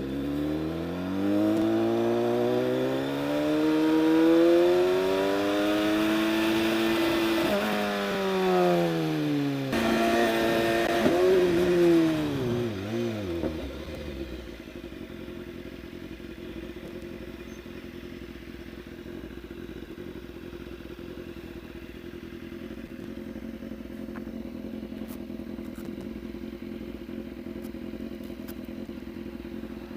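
BMW S1000RR's inline-four engine accelerating with rising revs for several seconds, then the revs falling as it slows about ten seconds in, before it settles into a steady, quieter running drone.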